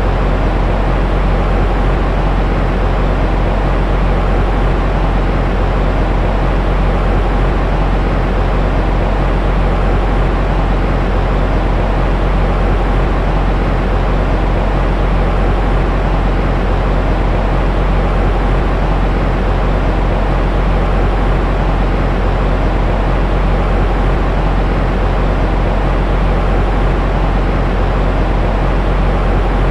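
Steady, unchanging white noise for soothing a baby, deep and rumbling with little hiss on top.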